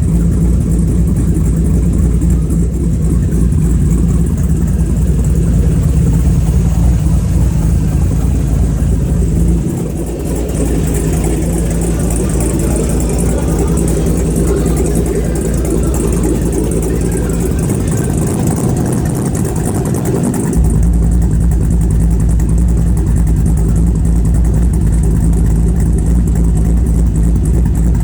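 Cammed 6.0-litre L96 LS V8 idling after its first start. About ten seconds in the sound briefly dips and turns thinner, and about twenty seconds in the deeper running returns.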